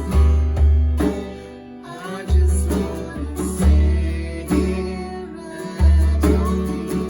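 Worship band music: strummed guitar over a deep bass line that changes note about once a second, with some singing.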